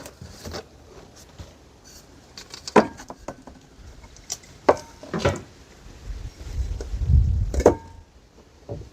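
Scattered knocks and clunks of things being picked up and handled, four or five single sharp knocks a second or more apart, with a low rumble near the end.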